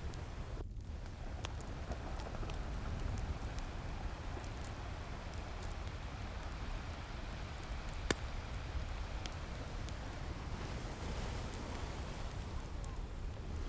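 A steady wash of ocean waves mixed with a crackling wood fire: scattered sharp pops over the surf, the loudest about eight seconds in.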